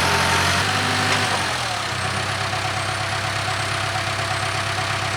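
Case 580K backhoe's diesel engine running. Its revs drop about a second in, and it then settles into a steady idle.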